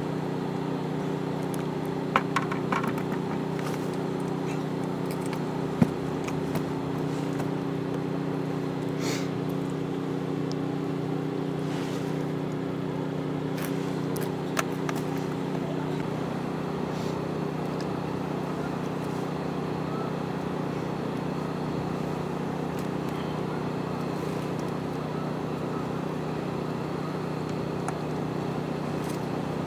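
Portable generator engine running steadily, a constant hum. A few sharp clicks or knocks stand out about two seconds in and again about six seconds in.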